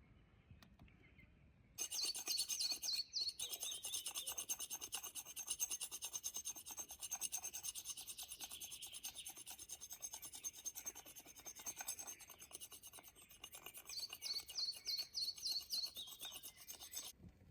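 A singing insect's loud, rapid rasping buzz. It starts suddenly about two seconds in and stops just before the end, with short runs of quick chirps near its start and again near the end.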